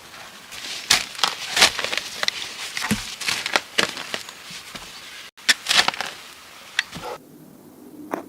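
Dry wood crackling and snapping in quick, irregular sharp cracks. About seven seconds in it drops suddenly to a quieter low hum, broken by a single crack.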